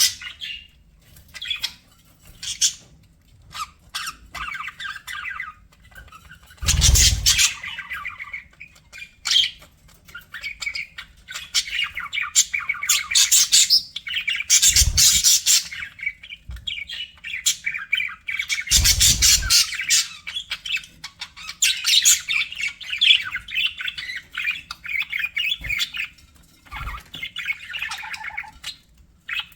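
Budgerigars chirping and chattering in a busy, warbling stream with squawks mixed in. Three louder, rougher bursts come about a quarter, half and two-thirds of the way through.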